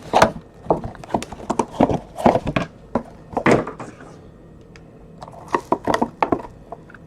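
Trading cards and their packaging being handled on a table: irregular light knocks and clicks, with a quieter stretch about four to five seconds in.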